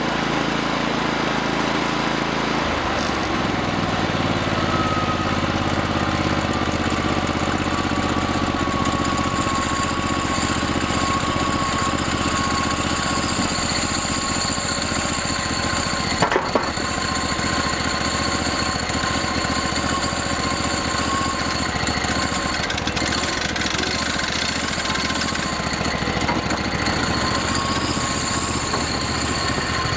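Engine-driven portable band sawmill running steadily, its blade cutting along a log, with a high steady whine over the engine. The engine note shifts about three seconds in, and there is one brief sharp knock about halfway through.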